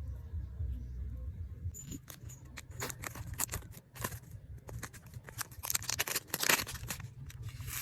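Packaging being handled while a parcel is unboxed: crackling, crinkling rustles in bursts, starting about two seconds in and heaviest near the end, over a low steady hum.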